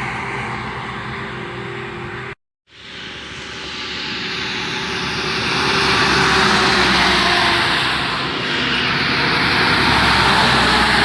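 Road traffic on a highway, mostly trucks, passing by as a loud, steady roar that swells and fades as vehicles come and go. It cuts out abruptly for a moment about two seconds in, where one clip is edited into the next.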